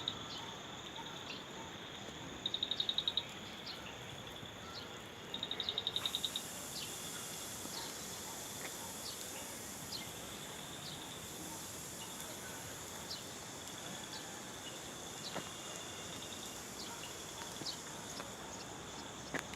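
Outdoor insect chorus: a steady high-pitched buzz with scattered short chirps, and a rapid pulsed trill that sounds three times in the first six seconds. A second, higher and hissier chorus joins about six seconds in and carries on.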